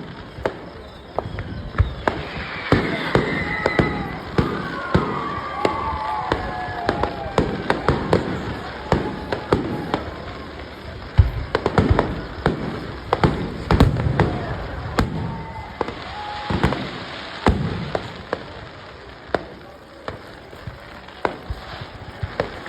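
Fireworks display: a rapid, continuous series of bangs and crackles from bursting aerial shells, with several high gliding tones through the first several seconds.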